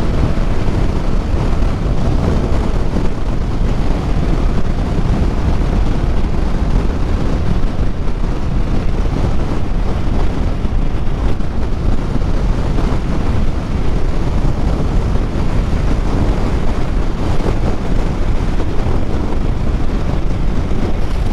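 Steady wind rush on the microphone of a motorcycle moving at road speed, heaviest in the low end, with the motorcycle's engine and road noise blended underneath.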